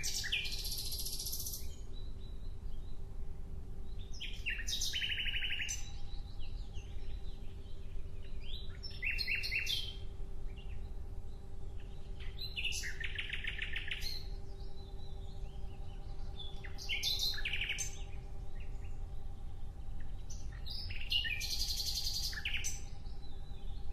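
A songbird singing short, rapid trilled phrases about once every four seconds, six phrases in all, over a steady low hum.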